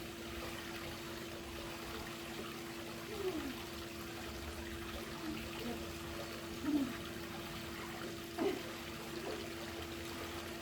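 Swimming-pool water trickling and lapping, under a steady low hum, with a few short gurgles about 3, 7 and 8.5 seconds in.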